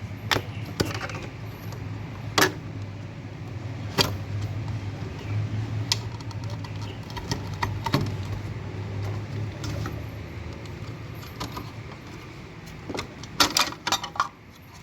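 Phillips screwdriver taking the screws out of a refrigerator compressor's terminal cover, with scattered small metallic clicks and taps and a quick cluster of them near the end. A low steady hum runs under it and fades out about ten seconds in.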